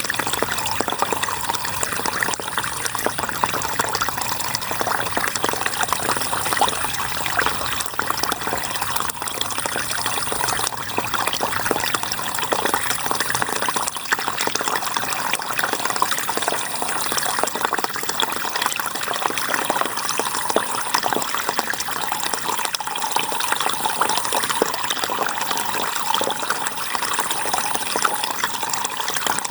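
River water flowing and splashing steadily.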